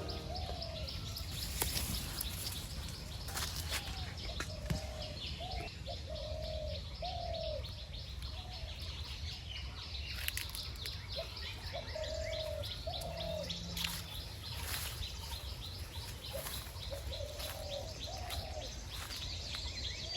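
Pigeons cooing in short, arched notes that come in small groups every few seconds. Faint high chirping of small birds runs underneath.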